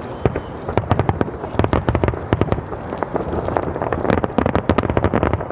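Fireworks display going off in rapid succession: a dense, unbroken run of overlapping bangs and crackles, many a second.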